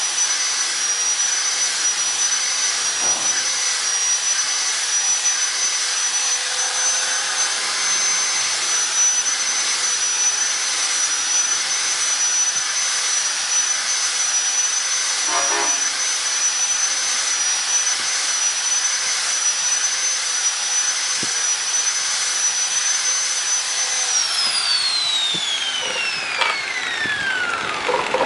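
Handheld electric grinder running with a steady high whine while it grinds a square cage bar round as the bar is turned against it. About 24 seconds in it is switched off and the whine falls steadily in pitch as it spins down.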